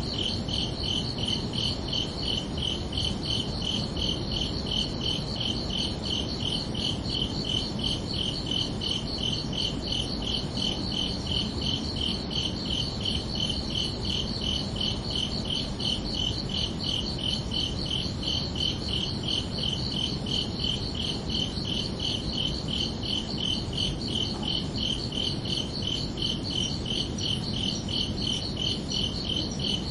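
Crickets chirping in a steady, unbroken run of rapid, evenly spaced high-pitched pulses over a low background hiss.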